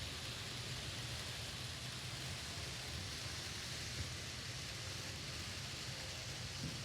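N scale model trains running on the layout: a steady low rumble of small motors and wheels on the track, under an even hiss, with a faint tick about four seconds in.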